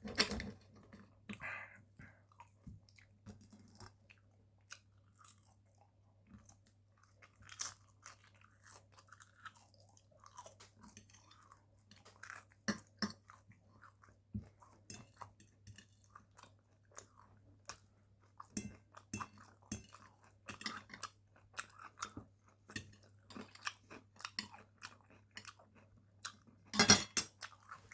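Close-up eating sounds: chewing and crunching mouthfuls of grilled chicken, air-fried chips and salad, with scattered soft clicks throughout and a louder crunch near the end. A faint steady hum runs underneath.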